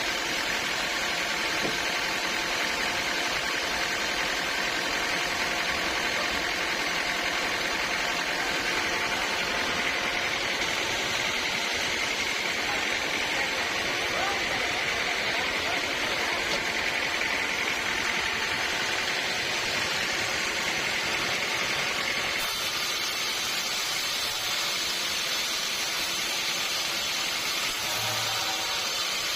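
Sawmill saw running steadily as it cuts through a large teak log. It gives a continuous noise whose tone shifts abruptly about 22 seconds in.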